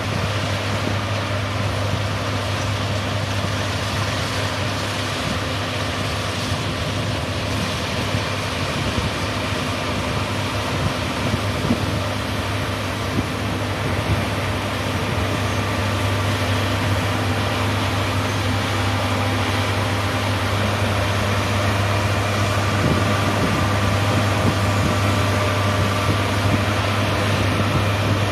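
John Deere S780 combine harvester running steadily with a constant low hum, getting a little louder in the last few seconds.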